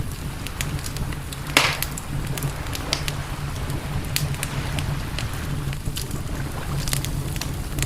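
Wood campfire crackling, with scattered sharp pops and one louder pop about a second and a half in, over a steady low rumble.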